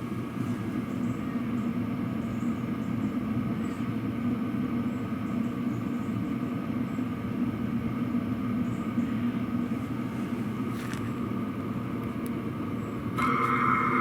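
Exhaust of a 5 kW Chinese diesel heater running steadily through a genuine Webasto silencer: an even, low running noise. A steady high whine joins near the end.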